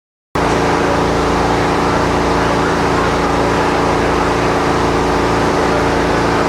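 An engine running steadily, cutting in suddenly near the start, with a faint low rhythmic pulse under several steady tones.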